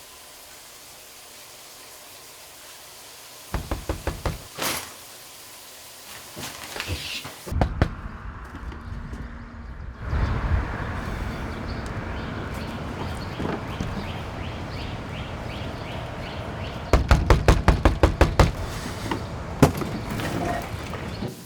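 Knuckles knocking on a door in quick runs, a short run about four seconds in and a longer run of about ten knocks near the end, with a steady rustling noise between them.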